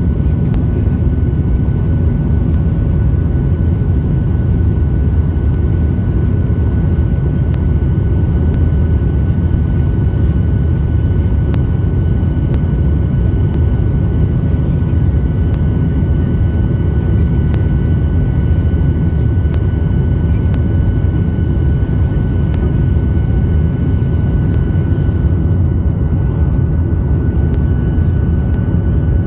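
Cabin noise of a Boeing 737-800 in flight with its CFM56 jet engines running: a loud, steady low rumble with a few steady whining tones above it.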